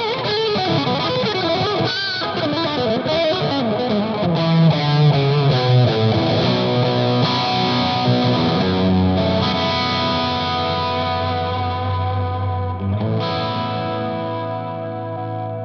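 Overdriven electric guitar through an EarthQuaker Devices Palisades overdrive pedal. It opens with bent, wavering lead notes and a run of low notes, then chords are left ringing, with a last chord struck near the end and left to fade.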